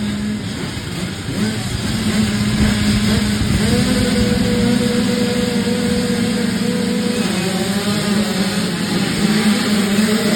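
Dirt bike engine running, rising in pitch about three and a half seconds in, holding steady for a few seconds, then dropping back.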